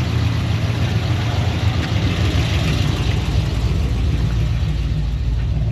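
A car engine idling steadily with a deep, even throb.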